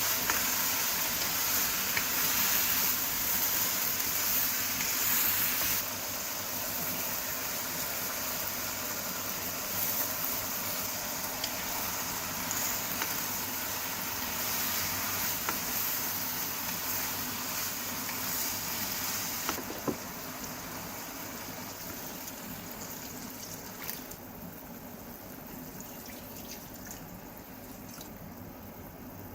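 Water running steadily, growing quieter in steps, with a couple of light knocks near the end.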